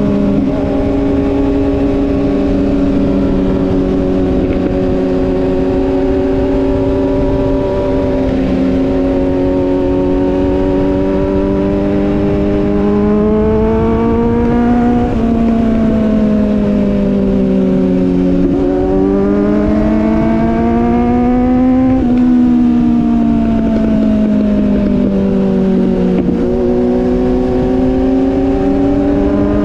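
Sport motorcycle engine running under way, heard from on the bike. Its note holds steady for the first stretch, then climbs and falls several times, with sudden steps in pitch in the second half.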